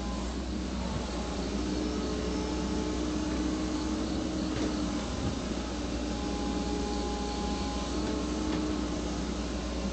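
Backhoe engine running steadily, a low rumble with whining tones that come and go.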